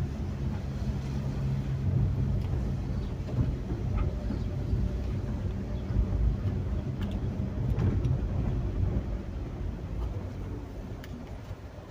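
Strong wind during a rainstorm, a steady low rumble with a few faint sharp ticks scattered through it.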